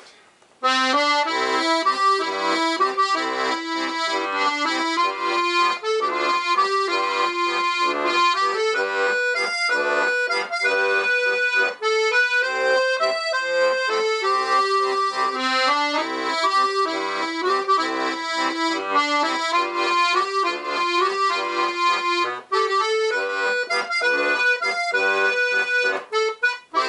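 Weltmeister Monte piano accordion played on one of its musette registers, with reeds tuned slightly apart for a wavering tone. It plays a tune of changing notes and chords that starts about half a second in.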